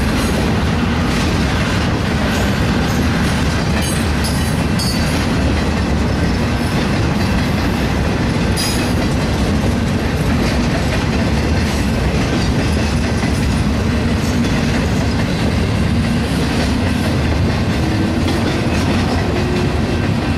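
BNSF intermodal freight train, flatcars loaded with semi-trailers, rolling past close by: a steady loud rumble and clatter of steel wheels on rail, with a couple of brief high squeals.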